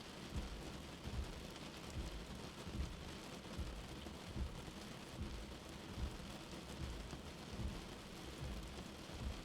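Steady rain with a soft, low heartbeat beating about once every 0.8 seconds underneath it.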